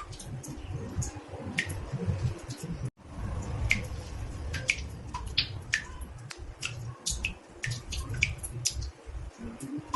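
Water drops falling into a bathtub: irregular plinks, two or three a second, over a low rumble. The sound briefly cuts out about three seconds in.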